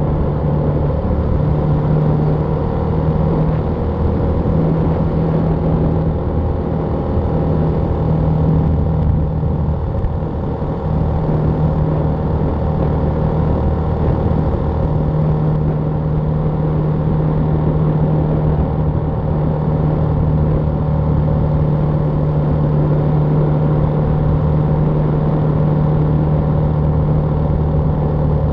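BMW G310R motorcycle's single-cylinder engine running while riding, with road noise. The engine holds a steady, even pitch, wavering briefly about ten seconds in.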